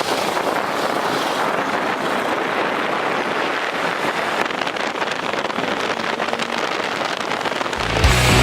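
Wind rushing over the microphone of a moving motorcycle: a steady noise with no clear engine note. Rock music comes in near the end.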